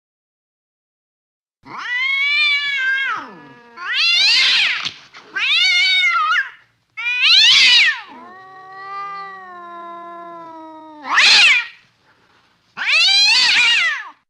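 Cat yowling: a string of about seven loud, wavering meow-like calls that start about a second and a half in, with one longer, lower, quieter moan in the middle.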